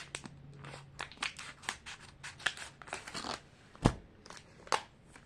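A small Mini Brands toy packet being crinkled and torn open by hand, with quick crackly rustles throughout and one firmer knock just under four seconds in.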